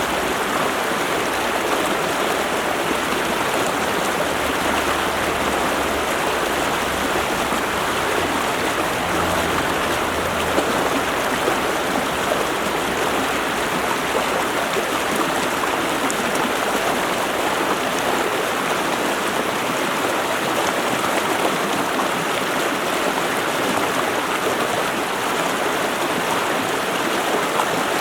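Stream water running, a steady, even rush with no change in strength.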